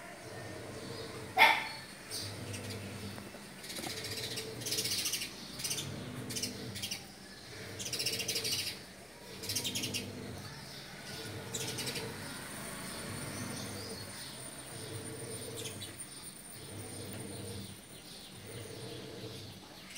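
Birds chirping in short bursts, with a sharp click about a second and a half in and a low hum that swells and fades over and over underneath.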